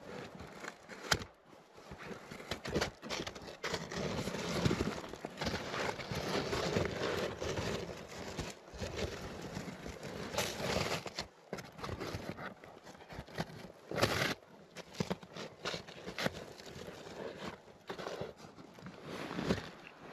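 Irregular rustling, crinkling and scraping, with scattered clicks and knocks and a sharper knock about two thirds of the way through.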